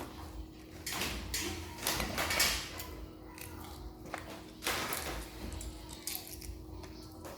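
Eating balut: a few short, noisy bursts of shell handling, slurping or chewing, about a second in, around two seconds in and again near five seconds, over a faint steady hum.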